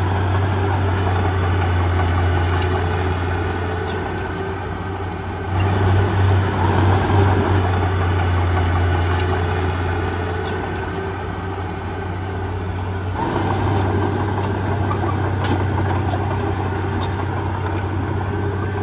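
Heavy diesel engine of earthmoving machinery running under varying load, its deep steady note swelling about five seconds in and again about thirteen seconds in, with scattered sharp clicks over it.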